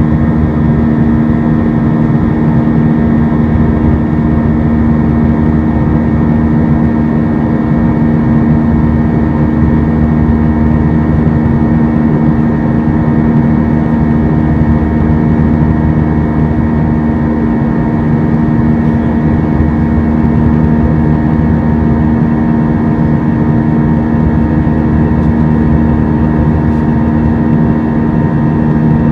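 Steady drone of an Airbus A320-232's IAE V2500 jet engines and rushing airflow, heard from inside the passenger cabin in flight. There is a constant low hum with a fainter high whine above it.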